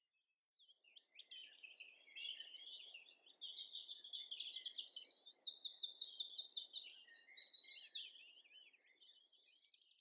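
Birds singing: a dense mix of high chirps and fast trills that starts about a second in and carries on.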